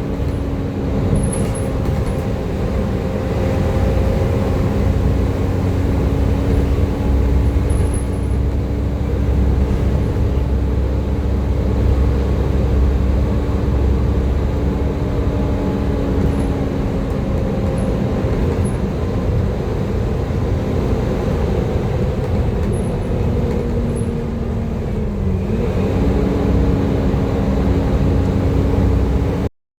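Volvo B7TL double-decker bus running under way: a low engine rumble with a steady whine on top, the 'hoover' sound. The whine dips briefly in pitch near the end.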